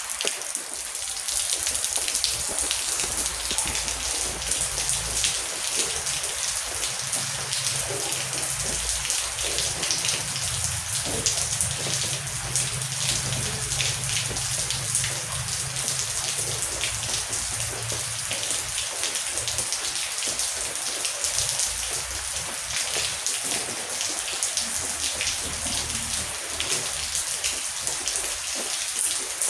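Heavy rain falling steadily, a dense patter of drops striking a surface. Underneath runs a low rumble of distant thunder, strongest through the middle and fading near the end.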